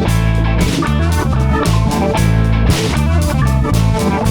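Band playing an instrumental passage of a rock song, with guitar, bass and drums and no singing.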